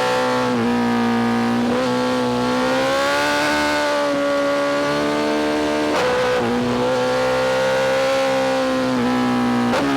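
BMW S1000RR inline-four with a full titanium Spark exhaust, running at a steady high pitch under throttle with gentle rises and falls. The note breaks briefly several times, about half a second in, near two seconds, around six seconds and near the end.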